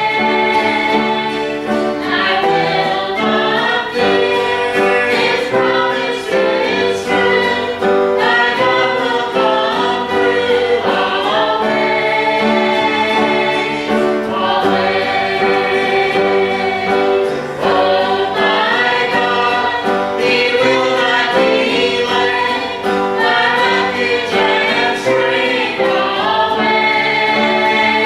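Gospel song sung by a group of voices with piano accompaniment, continuous throughout.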